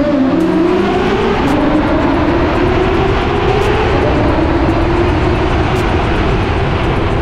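High-revving naturally aspirated sports car engine running loud under load. Its pitch climbs over the first second or so, then holds high with a slow further rise.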